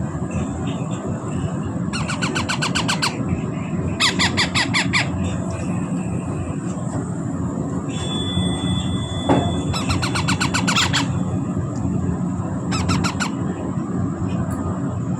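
Parrot chicks giving rapid, squealing begging calls while being hand-fed, in four short bursts of about a second each, over a steady low background hum.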